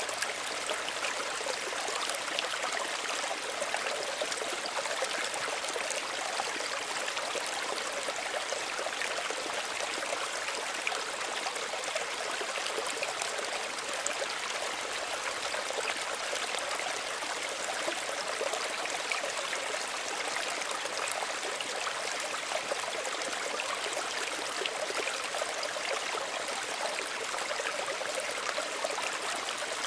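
Small stream running steadily, its water trickling and splashing with a bright, even rush and no let-up.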